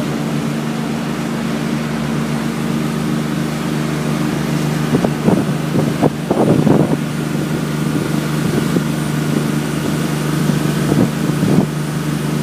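Yanmar diesel inboard of a 39-foot Mainship cruiser running steadily underway, a constant low drone. A few short noisy surges, loudest around the middle and again near the end, rise over it.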